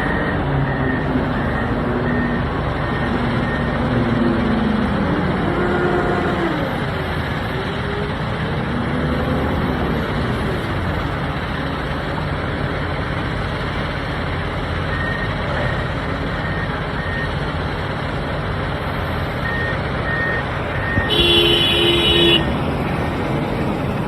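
Komatsu WA470 wheel loader's diesel engine running under work, its pitch rising and falling in the first ten seconds, with a reversing alarm beeping steadily in several stretches. A horn sounds briefly near the end.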